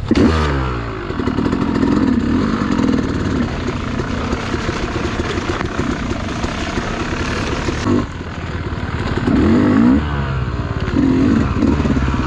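Dirt bike engine being ridden hard, its pitch rising and falling as the throttle is opened and rolled off. There are sharp revs just after the start and again three times in the second half.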